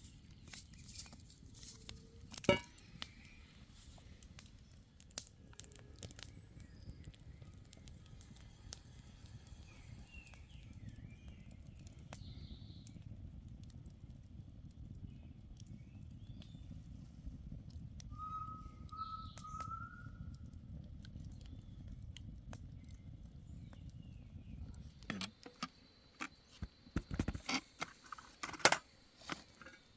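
Scattered light clicks and knocks of objects being handled over a low steady rumble, with three short rising whistled notes about two-thirds of the way through and a run of sharper clinks near the end.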